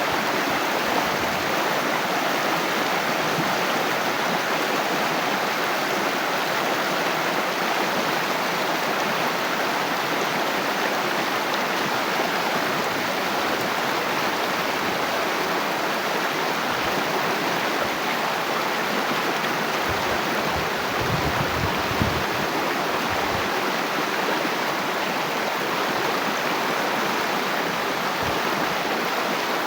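Water flowing with a steady, even rush, like a small stream. A brief low rumble comes in about twenty seconds in.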